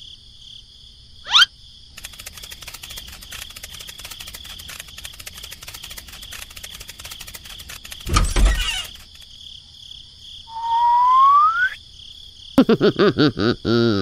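A string of cartoon sound effects: a quick rising whistle about a second in, a steady crackly insect-like buzz, a dull thud about eight seconds in, a smooth rising whistle glide, then a rapid run of short pitched chirps near the end.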